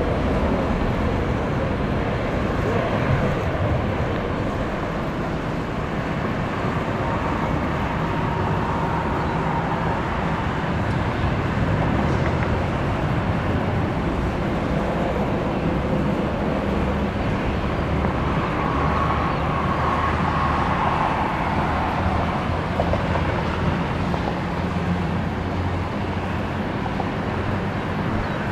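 Jet airliner engines running, a steady broad rumble with a faint whine that comes and goes.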